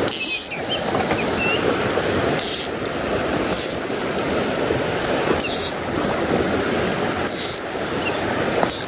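Mountain stream rushing steadily, with about six short bursts of a fly reel's click-pawl ratchet as line is reeled in or pulled off the reel.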